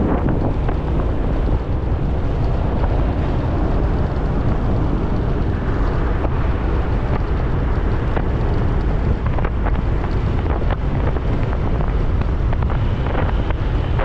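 Wind rushing over the microphone on a moving motorcycle, with engine and road noise underneath, steady throughout.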